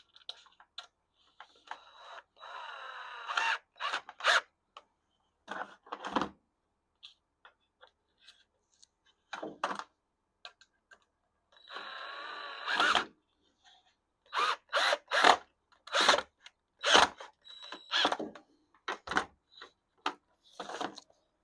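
Power drill running in two short bursts, its pitch wavering under load as it deepens screw holes in a wooden shelf part. Sharp knocks and clatter from wood and tools being handled are scattered between the bursts.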